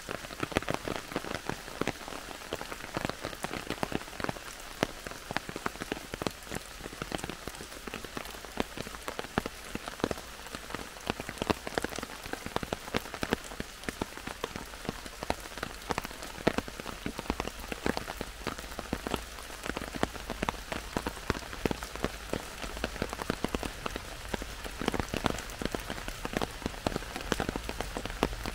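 Heavy rain falling in a forest, with a steady hiss and many irregular sharp drop strikes on leaves.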